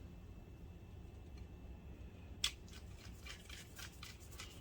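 A small screw being driven back into the projector's housing by hand with a screwdriver. A sharp click comes about two and a half seconds in, then a run of small irregular ticks and scrapes as the screw is turned.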